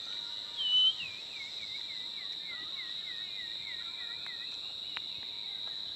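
Jungle insects droning steadily at a high pitch while a bird gives a loud whistle, then a run of short swooping whistled notes, about three a second, for a few seconds. A single sharp click near the end.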